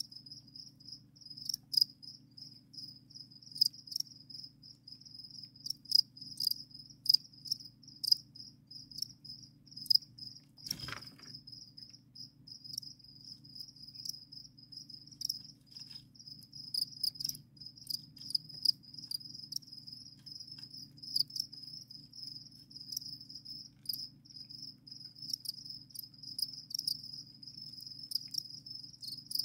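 Captive crickets singing: a continuous rapid pulsed chirping, high-pitched and steady, with scattered sharp ticks. A single brief knock sounds about eleven seconds in.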